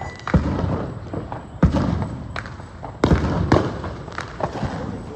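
Consumer fireworks going off: several sharp bangs at irregular intervals, some with a short ringing tail.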